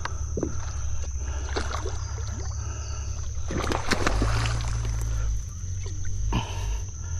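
A hooked muskie splashing and thrashing in the water beside a kayak, loudest about four seconds in, over a steady low wind rumble on the microphone.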